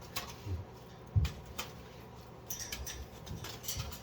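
Light clicks and taps from a pet cockatoo handling its play toys, with one louder knock about a second in.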